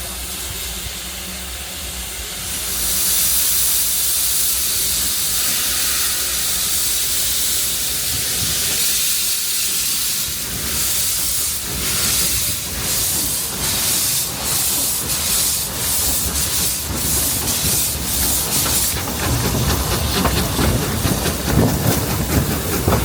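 Narrow-gauge steam locomotive starting away: loud hissing steam, then exhaust chuffs that come quicker and quicker as the train gathers speed.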